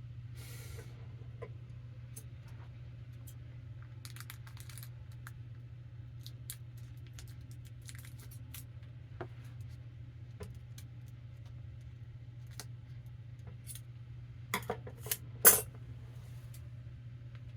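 Scattered light clicks and taps of small hard objects being handled on a work surface, over a steady low hum. Near the end comes a quick cluster of sharper clicks, the last of them the loudest.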